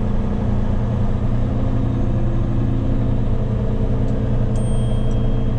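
Truck engine running steadily while cruising at low speed, heard from inside the cab together with road noise. A faint brief high beep about four and a half seconds in.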